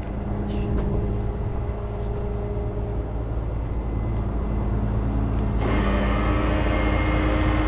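Heavy truck engine running steadily. About six seconds in it steps up louder, with added hiss and a higher tone, as if brought up to working revs.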